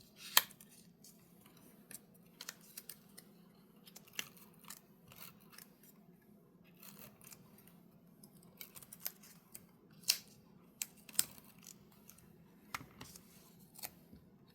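Scissors snipping paper and tape, with paper being handled between cuts: scattered sharp snips and clicks, the loudest near the start and about ten and eleven seconds in.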